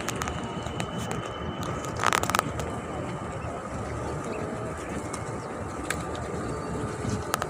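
A flock of pigeons cooing over a steady outdoor background hubbub, with a short burst of rapid clattering about two seconds in.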